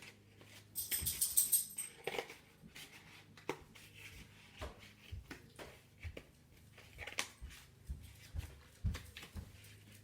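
Scissors cutting through an egg carton: irregular snips and crunches, with a louder crinkly rattle about a second in.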